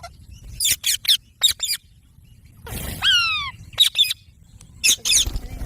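Indian ringneck parakeets calling: short shrill chirps in quick clusters, with one longer call sliding down in pitch about three seconds in.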